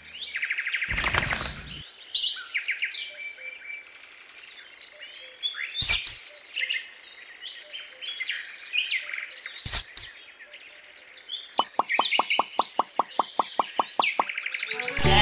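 Birds chirping and tweeting throughout, with a few sharp knocks about one, six and ten seconds in, and a quick run of clicks, several a second, for about three seconds near the end.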